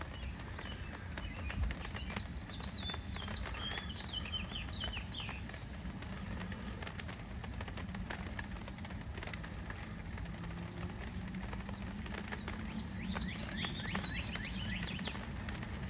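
A songbird singing two runs of quick chirps, about three seconds in and again near the end, over a steady low hum.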